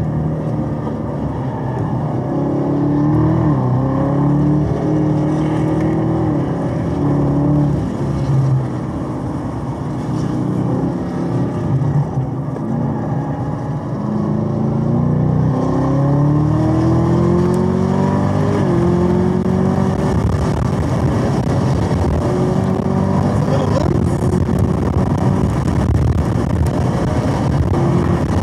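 Supercharged 6.2-litre LT4 V8 of a Chevrolet Camaro ZL1 1LE at full throttle on track, heard from inside the car. The engine note climbs under acceleration and drops sharply at each upshift, with a lower, rougher stretch off the throttle through a slow corner near the middle.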